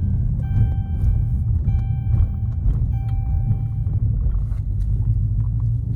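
Low, steady rumble of a Dodge Charger 392 Super Bee's 6.4-litre HEMI V8 heard from inside the cabin while driving, with a short high tone that comes and goes several times.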